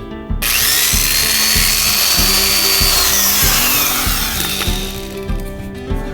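A power tool runs for about four and a half seconds: a high whine over loud hissing noise that starts abruptly and winds down near the end, over background music with a steady beat.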